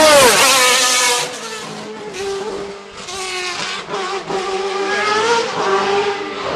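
Hillclimb race car passing close at full throttle. Its engine note drops steeply as it goes by, then it fades up the road, the pitch climbing again and again as it accelerates through the gears.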